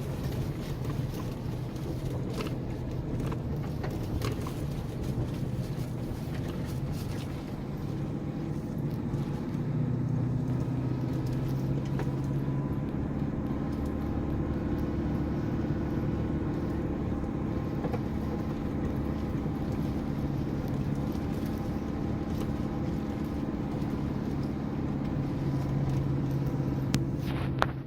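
Vehicle engine running steadily as it drives along a dirt road, its note firming up about ten seconds in, with scattered knocks and rattles from the rough track.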